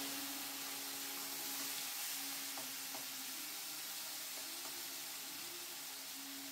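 Prawns sizzling in hot mustard oil in a steel kadai, a steady frying hiss as they are stirred.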